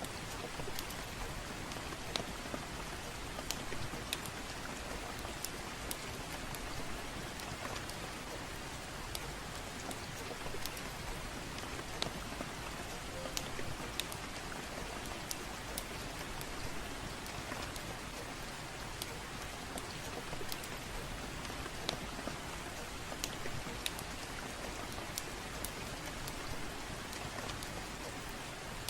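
Steady gentle rain hiss with scattered sharp crackles and pops from a wood fire, every second or so.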